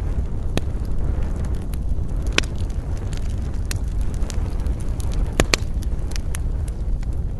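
Campfire crackling, with sharp wood pops, the loudest a pair of cracks about five and a half seconds in, over a steady low rumble.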